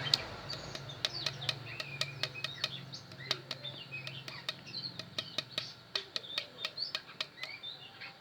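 Small birds chirping repeatedly, with many light, irregular clicks and taps of hand work on the armature.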